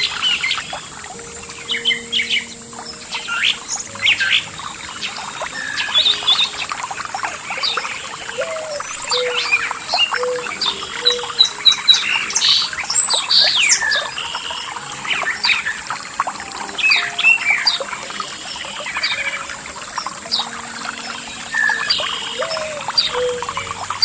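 Many songbirds chirping and singing over a steady hiss of running water. Faint low held tones sit beneath them.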